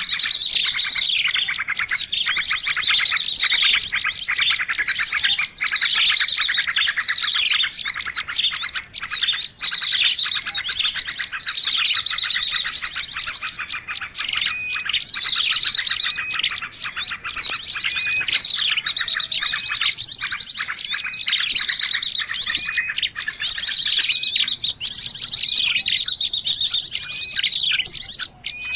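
Dense chorus of many small songbirds chirping and trilling over one another without pause: a lure recording used to call small birds in.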